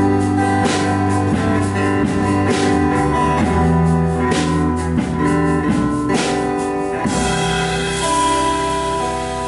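Band playing an instrumental passage of a pop-rock song, with guitar and drum kit over a steady beat. About seven seconds in, the beat stops and a chord is left ringing.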